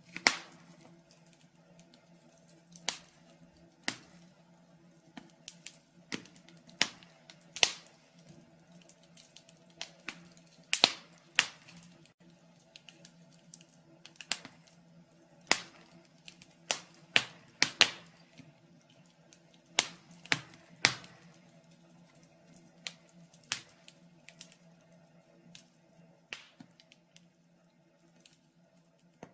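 Wood fire in a fireplace crackling, with irregular sharp pops, a cluster of the loudest ones around the middle, over a faint steady low hum.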